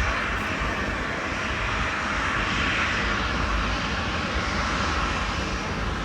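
Engine noise of a large passenger jet: a steady rushing noise with a low rumble underneath.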